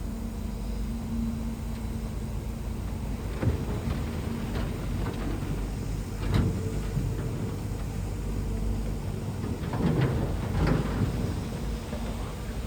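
Shantui bulldozer's diesel engine running steadily, with several metal clanks and knocks from the machine as it works, the strongest about ten seconds in.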